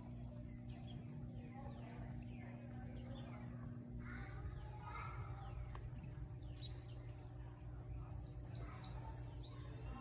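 Birds chirping, many short high calls that sweep downward, busiest in the second half, over a steady low hum.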